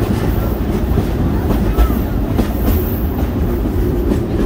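Open-sided passenger car of a narrow-gauge steam excursion train rolling along the track, heard from inside: a steady low rumble of the wheels with irregular clicks over the rail joints and a few faint brief squeaks.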